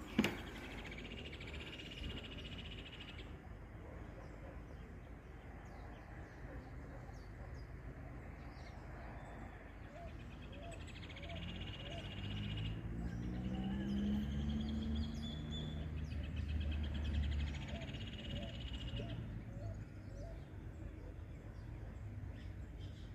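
Birds singing at dawn, several bouts of a rapid trilled song and a few soft chirps. A sharp click sounds right at the start, and a low hum swells and rises in pitch in the middle before fading.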